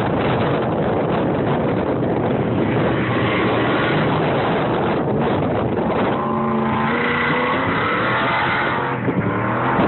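Truck engine running hard under loud wind rush; about six seconds in its pitch comes through clearly and rises and shifts as it revs.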